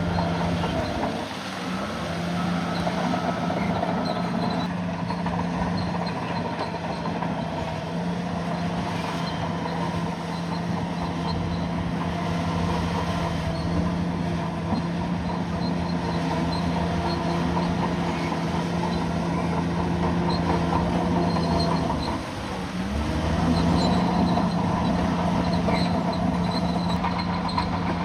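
Bulldozer's diesel engine running steadily under load, its pitch dipping briefly twice, near the start and about three-quarters of the way through, as it lugs and then picks back up.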